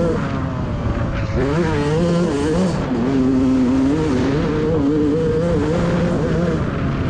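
Motocross bike engines racing, more than one at once, their pitch rising and falling as the riders work the throttle.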